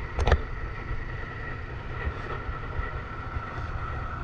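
Truck engine running with a steady low rumble and a faint steady whine. A brief sharp click sounds about a quarter second in.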